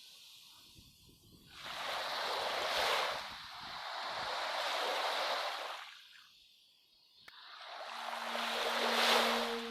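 Ocean waves washing in: three separate swells of surf noise, each rising and falling away over two to three seconds. Near the end a low held musical tone comes in under the last wave.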